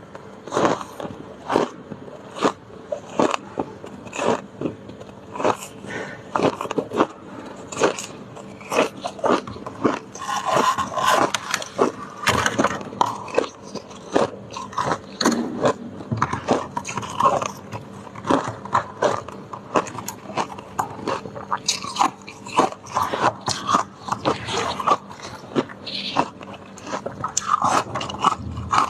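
Freezer icicles being bitten and chewed, a long run of sharp, irregular crunches close to the microphone.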